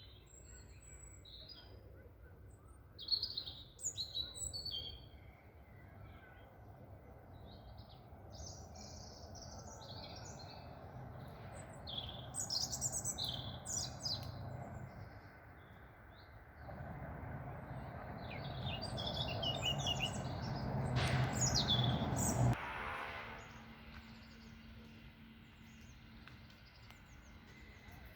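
Wild birds chirping in short scattered bursts over a steady outdoor background. A low rumbling noise swells in the second half and then stops abruptly.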